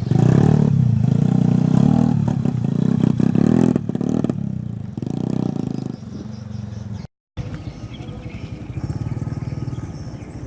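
Mitsubishi Canter truck's diesel engine revving hard under load as the truck struggles through mud. It is loudest for the first four seconds, then eases off, and cuts out completely for a moment about seven seconds in.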